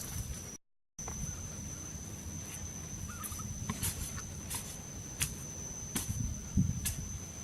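A steady high-pitched insect drone over outdoor ambience, with scattered sharp clicks and knocks and low rustling. The sound drops out completely for a moment just under a second in.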